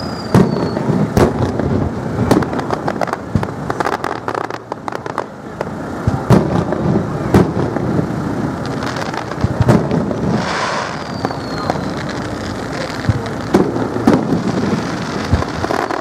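Aerial firework shells bursting overhead in an irregular series of loud bangs that trail into rumbling echoes, with a short falling whistle near the start and again partway through.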